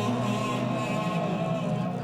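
Free-improvised ensemble music: several held tones layered over a steady low drone.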